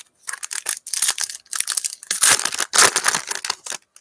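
Plastic foil wrapper of a pack of football trading cards being torn open and crinkled in the hands, a dense run of crackling rustles that is loudest about two to three seconds in.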